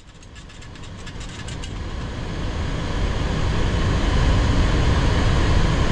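Steady cockpit noise of a Boeing 737-800 in flight on approach: airflow and engine rumble, rising in level over the first few seconds and then holding steady. A quick series of faint ticks sounds in the first second and a half.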